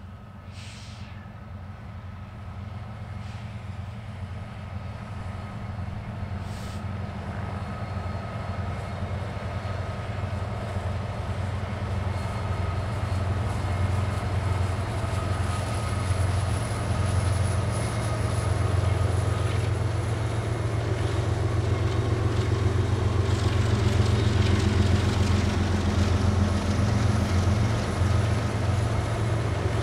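Diesel-electric freight locomotives pulling a long train, a low steady engine rumble that grows steadily louder as they approach.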